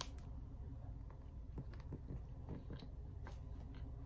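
A man biting into a soft, chocolate-dipped Drake's Devil Dog snack cake right at the start, then chewing quietly with faint, irregular mouth clicks.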